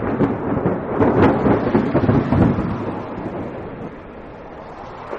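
Thunderstorm sound effect: rolling thunder over steady rain, dying down over the last couple of seconds.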